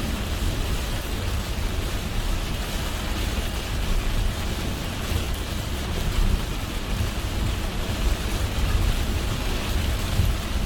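Heavy rain on a moving car, over the steady low rumble of the car's road and tyre noise.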